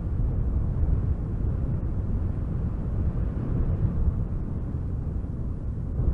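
Strong wind gusting through spruce trees: a low, rushing rumble that swells and eases without letting up.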